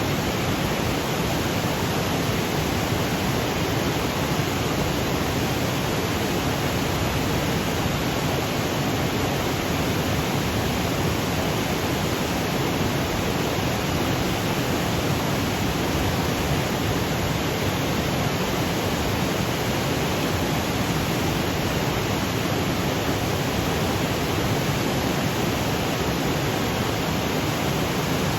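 Waterfall cascading over granite boulders: a steady, unbroken rush of water.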